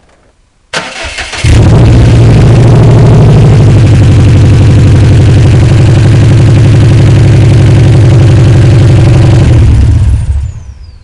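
Subaru STi's EJ257 turbocharged flat-four engine started for its first run after an oil change: the starter cranks briefly, the engine catches about a second and a half in and runs at a steady idle, then it is shut off and dies away near the end.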